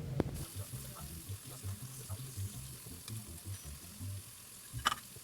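Onions deep frying in hot oil, a steady sizzle.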